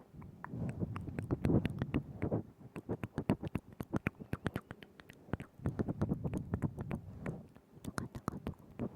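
Wet mouth sounds made right at a binaural microphone: rapid, irregular tongue clicks and lip smacks, with two longer stretches of softer wet smacking.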